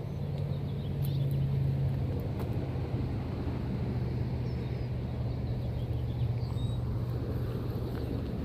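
A steady low engine hum over a low rumble, a little louder about a second in.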